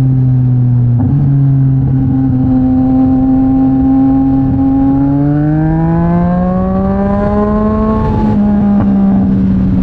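Yamaha MT-09 SP's three-cylinder engine through a Mivv X-M50 aftermarket exhaust, holding a steady note while riding, then accelerating with the pitch rising from about five seconds in. The note breaks briefly just after eight seconds, then holds steady again, with wind rushing underneath.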